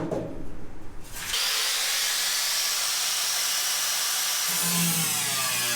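A power cutting tool starts about a second in and runs steadily, cutting a rusted-through section of car floor pan out. Music comes in under it near the end.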